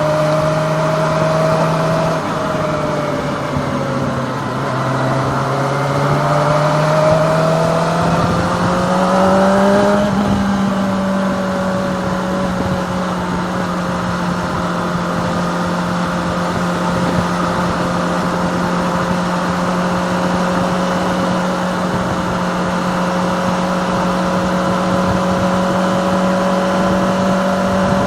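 Kawasaki ZX-25R's 250cc inline-four engine heard from on board while riding: the engine pitch sags a little over the first few seconds, climbs steadily as the bike accelerates until about ten seconds in, then holds steady at a cruise, with wind and road rush underneath.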